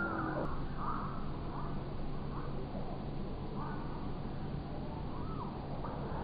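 Birds calling: short arched calls every second or so over a steady low hum.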